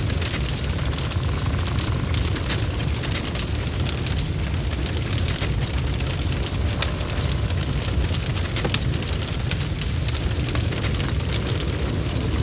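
Wood bonfire burning: a steady low rumble of flames with frequent irregular crackles and sharp pops.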